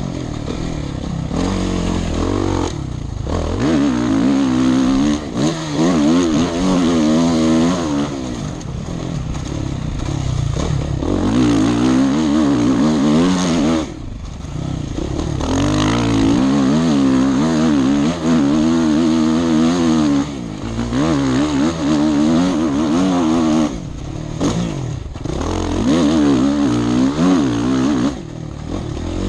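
Motorcycle engine revving hard and easing off again and again through a lap, its pitch climbing and falling with each run up the gears, with several brief drops where the throttle is shut off. Heard from the rider's helmet, with a steady rush of wind noise under it.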